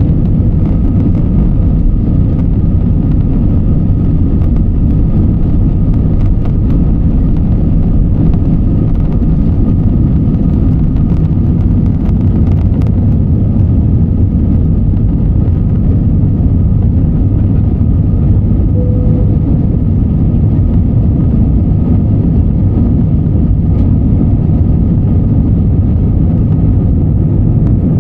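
Steady, loud rumble of a passenger airliner's engines and rushing air heard from inside the cabin, with a faint steady whine above it.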